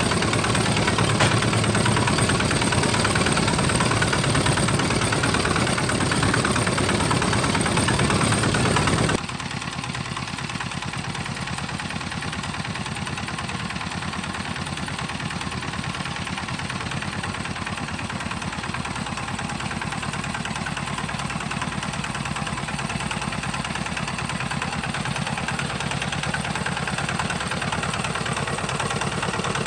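Homemade tractor's engine running steadily; about nine seconds in it drops abruptly to a quieter, steady running.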